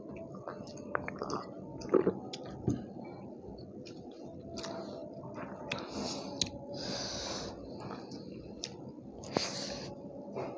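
Close-miked chewing and mouth noises of people eating rice and curry with their fingers: wet smacks and small clicks scattered throughout. Two short hissing sounds come about seven and nine and a half seconds in.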